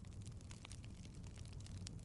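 Fire crackling: irregular small pops and snaps over a low steady rumble.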